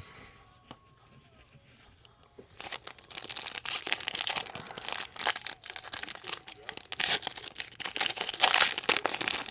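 Panini Prestige trading card pack wrapper being torn open and crinkled, starting about two and a half seconds in after a quiet start.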